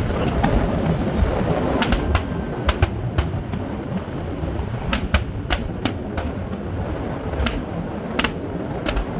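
New Year's fireworks going off: scattered sharp pops, about a dozen at uneven intervals, over a steady low rumble.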